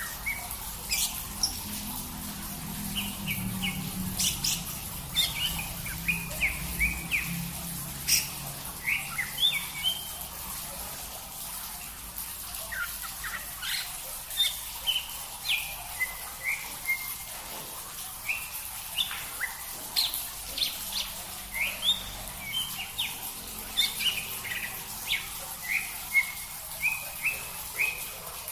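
Small songbirds chirping: a quick run of short, sharp, high chirps, some sliding down in pitch, repeating every fraction of a second throughout.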